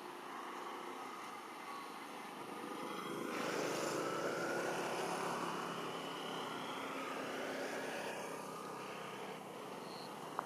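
A passing engine: a noisy rumble that swells about three seconds in and then slowly fades away.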